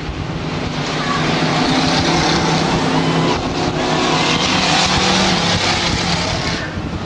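Stock trucks racing on a dirt oval track, their engines running hard as a pack goes by. The noise swells about a second in and falls away near the end.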